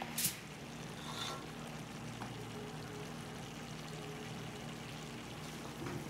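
Vegetables for chow mein sizzling steadily as they fry in a large pot on a gas stove, with one sharp knock just after the start.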